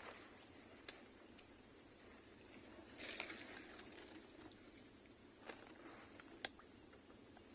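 Night insect chorus: a steady, high-pitched continuous trilling, with a few faint clicks here and there.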